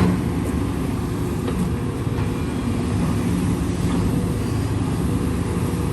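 Engine of a heavy earthmoving machine running steadily at an even pitch.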